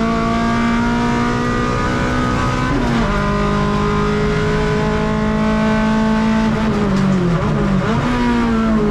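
Honda K24A 2.4-litre inline-four in an EG6 Civic race car, heard from inside the cabin, running hard at racing speed. Its pitch dips once about three seconds in, then falls and flares up with quick throttle blips near the end.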